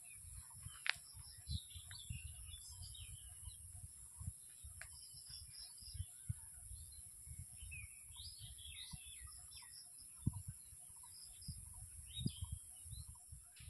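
Small birds chirping with short, high calls scattered through, over faint low rumbling and soft knocks.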